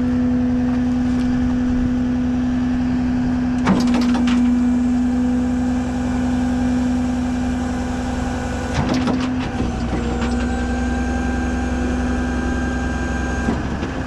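Rollback tow truck running its hydraulics while the bed and winch are worked: a steady engine-and-pump drone, its pitch dipping slightly about ten seconds in, with metal clanks about four and nine seconds in.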